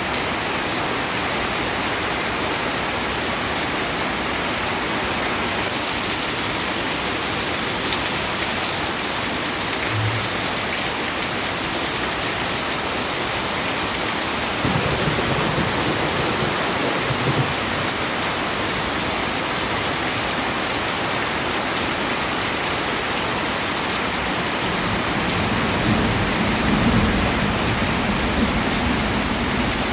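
Steady heavy rain falling, with low thunder rumbling twice, once about halfway through and again near the end.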